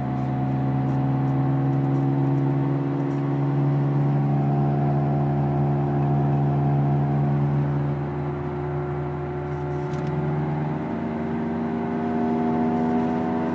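2003 Honda Civic driving, with a steady hum of several tones that creep up in pitch over the last few seconds. It is the car's unexplained noise, which gets louder and faster with road speed whatever gear the car is in.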